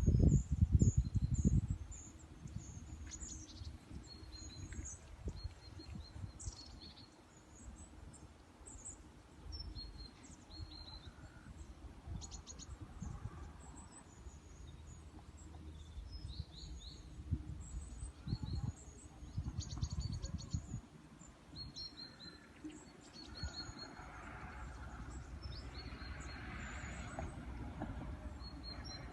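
Small songbirds chirping and twittering, many short high calls throughout. Low rumbling noise underneath, loudest in the first two seconds and again about two thirds of the way in.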